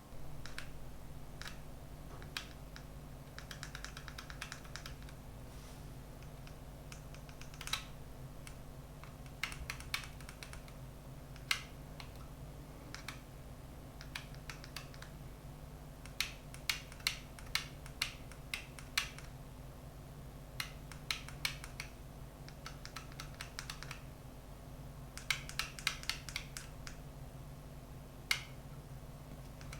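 Light clicks and taps from handling a smartphone gimbal and phone, scattered and now and then in quick runs of several, over a steady low hum.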